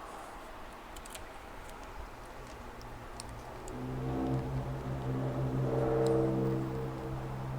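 A low, steady hum with a few pitched overtones swells up about three seconds in, is loudest just past the middle, and fades near the end, over a few faint ticks.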